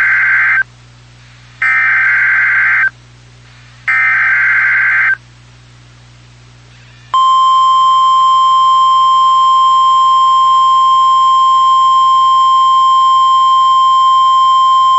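NOAA Weather Radio SAME alert header: the tail of one harsh, warbling data burst, then two more bursts of a little over a second each with short gaps between. About seven seconds in, the single steady Warning Alarm Tone starts and holds; together they mark the start of a tornado watch alert.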